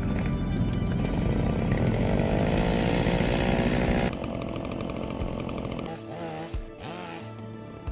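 Chainsaw running at high speed for about four seconds, then after an abrupt cut quieter, with its pitch swooping up and down a few times as it is revved.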